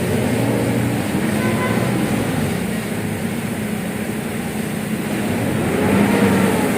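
A vehicle engine running and revved twice, its pitch rising and falling about a second in and again near the end, while its smoky exhaust and muffler are being cleaned.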